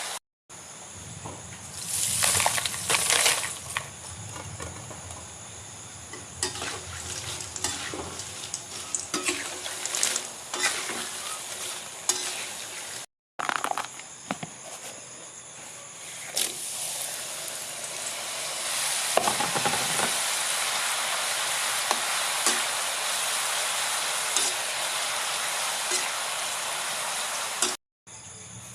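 Food frying in hot oil, sizzling steadily, with clicks and scrapes of a utensil stirring it in the pan. The sizzle grows fuller and steadier in the second half, and the sound cuts out briefly a few times.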